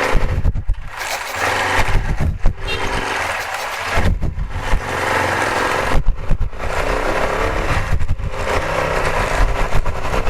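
Taro GP1 motorcycle engine running under way, heard through a helmet-mounted camera microphone with wind noise over it, the sound dipping briefly every second or two.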